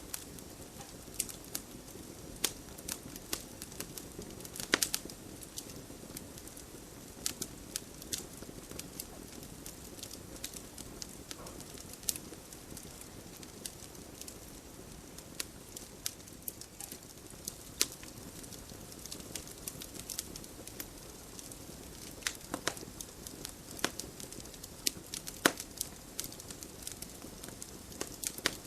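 Wood fire crackling in a fireplace: a steady low hiss of burning with irregular sharp pops and snaps, a few louder ones among them.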